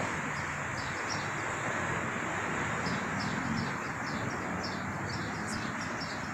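A small bird chirping over and over, short high notes that drop in pitch, a few a second, over a steady outdoor background hiss.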